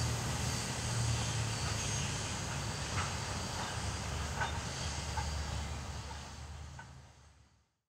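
Freight train rolling along: a steady low rumble under a hiss, with a few short sharp clicks in the middle. The sound fades away to nothing near the end.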